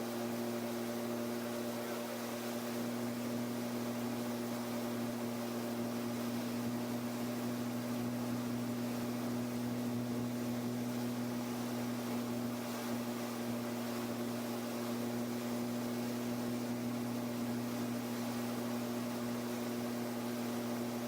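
Kallithea gyroplane's engine and propeller running steadily: an even drone that holds one pitch throughout, with no change in power.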